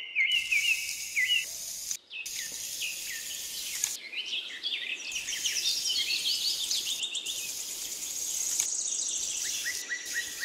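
Small birds chirping and twittering: many quick, high calls overlapping, with a few short breaks, over a faint hiss.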